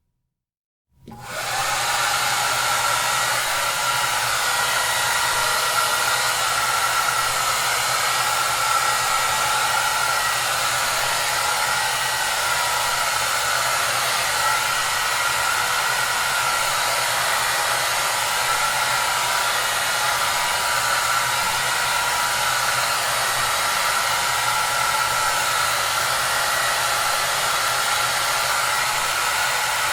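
Hair dryer running steadily, a dense even rush of air with a faint whine and low motor hum. It cuts in abruptly about a second in after a brief silence.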